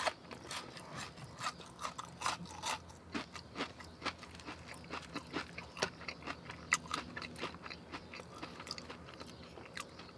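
A man chewing a mouthful of chili cheese fries close to the microphone: many soft, irregular mouth clicks and smacks.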